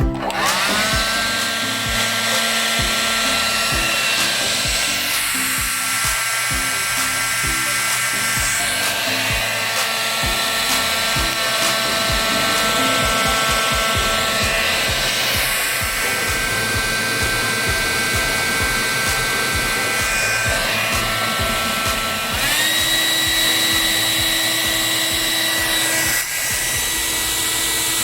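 Electric hair dryer switched on: its motor whines up to speed over a steady rush of air, then runs steadily, stepping up to a higher pitch and louder about 22 seconds in as it is switched to a higher setting.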